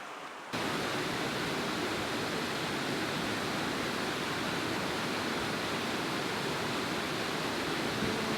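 Steady rushing of a waterfall, Sgwd Gwladys, falling water heard as an even roar that comes in abruptly about half a second in.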